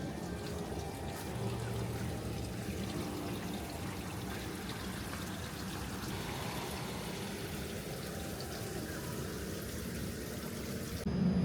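Steady sound of running water, like a trickling stream or fountain. Just before the end it cuts abruptly to a louder low hum.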